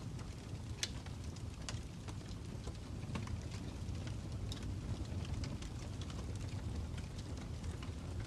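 Fire crackling: irregular sharp pops and snaps, a few per second, over a low steady rumble.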